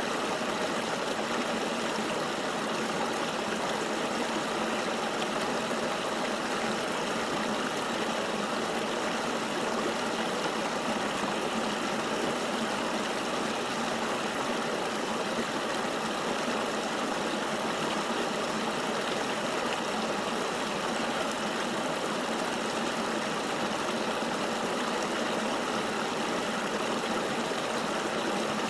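Flowing river water rushing steadily, an even hiss with little deep rumble and no change throughout.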